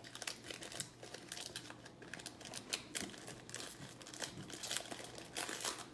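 Crinkling and rustling of trading cards and foil pack wrappers being handled, in short, irregular crackles.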